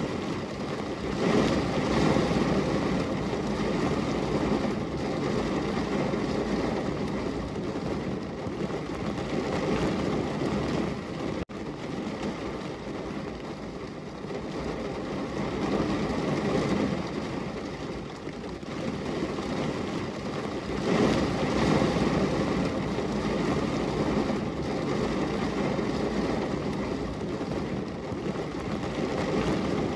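Heavy rain pouring steadily on a window, a dense even rush that swells louder twice, with a momentary gap about a third of the way through.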